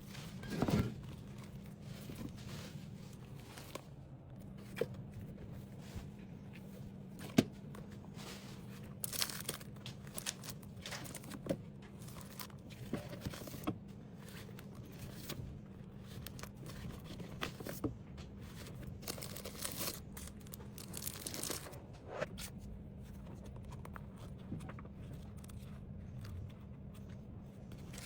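Plastic packaging crinkling and rustling with scattered light taps and knocks as small items are handled and packed, over a low steady hum.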